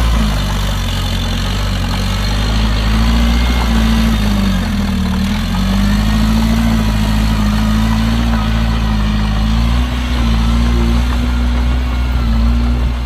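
Heavy diesel engine of earthmoving machinery running loud and steady. Its pitch sags briefly about five seconds in, then recovers.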